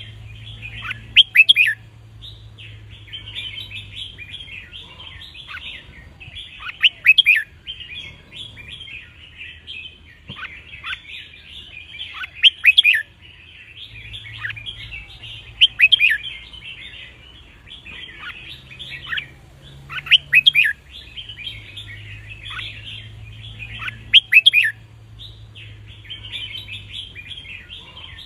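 Red-whiskered bulbuls singing: loud, bright song phrases come about every four to six seconds, six times, over steady chattering of other bulbuls.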